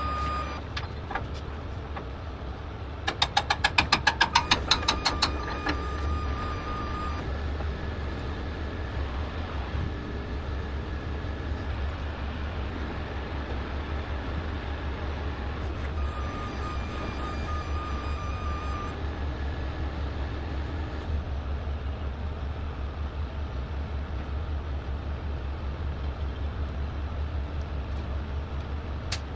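A heavy diesel truck engine idles with a steady low rumble. A high warning tone, like a reversing beeper, sounds on and off. About three seconds in comes a quick run of loud clicks lasting about two seconds.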